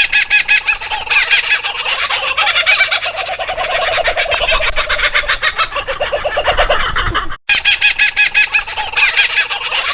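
A loud chorus of birds calling in rapid, repeated chattering phrases. The sound cuts out abruptly for a moment about seven and a half seconds in, then the calling resumes.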